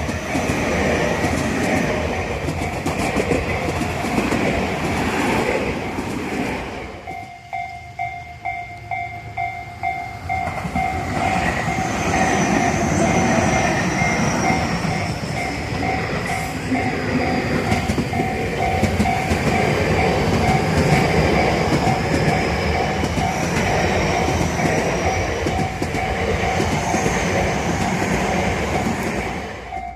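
Electric commuter trains passing on the Tobu Tojo Line: one train's running noise until a cut, then an evenly repeating bell-like ding, typical of a level-crossing alarm, that keeps going as another train rolls by with wheel clatter and a high whine that falls and then rises.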